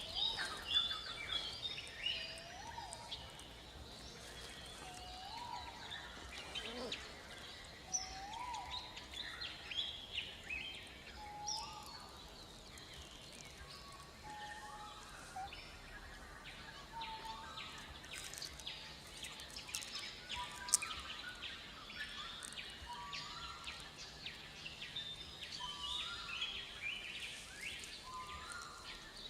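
Forest ambience with many birds chirping and whistling, short calls and rising whistles repeating over a faint steady background noise; busiest in the first few seconds.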